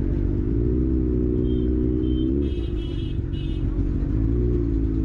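Engine running in road traffic, its drone rising in pitch briefly about two and a half seconds in and again near the end, with several short vehicle horn honks in the middle.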